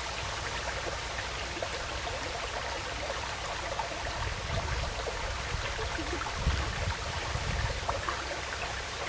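Small woodland stream flowing and trickling steadily, with small splashing plinks of water. A low rumble swells in and out for a few seconds in the middle.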